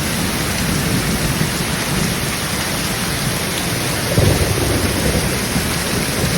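Steady heavy rain with low rolling thunder underneath, the rumble swelling about four seconds in.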